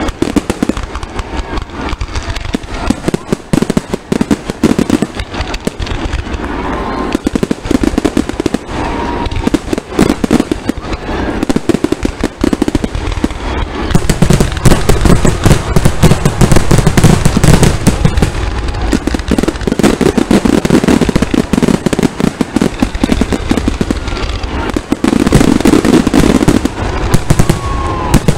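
Aerial fireworks going off in a dense, rapid barrage of booms and crackles, heavier and louder from about halfway through.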